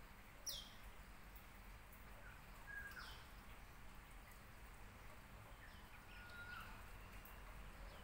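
Faint bird calls: three short whistled calls about three seconds apart, each a brief steady note followed by a quick downward-sliding whistle, over a low steady hum.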